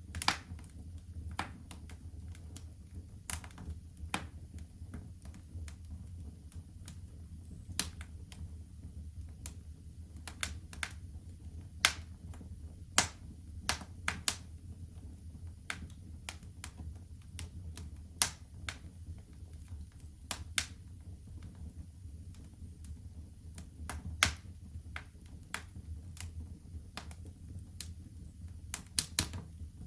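Wood fire crackling in a fireplace: irregular sharp snaps and pops, a few close together, over a steady low rumble of burning.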